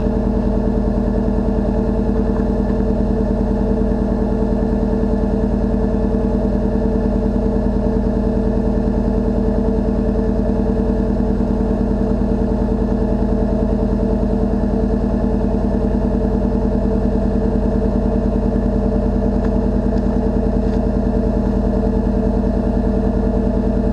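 1991 Chevrolet pickup's original, 412,000-mile engine idling steadily, warming up after a cold start in 10-degree weather.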